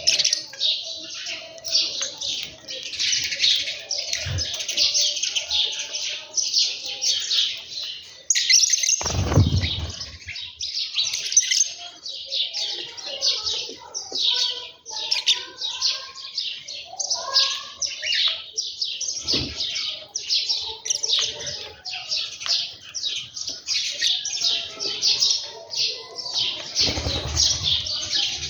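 A flock of small birds chirping continuously, many calls overlapping. A few dull low thumps break in, the loudest about nine seconds in.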